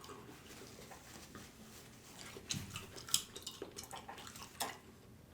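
Faint eating sounds while a barbecue beef rib is eaten: soft chewing with a scatter of small, sharp clicks and smacks from about two seconds in.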